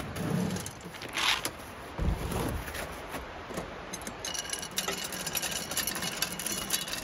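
Ooni Fyra pellet pizza oven being handled and fired up: a short scrape about a second in and a low thump about two seconds in, then a fast fine crackle with a faint steady hum.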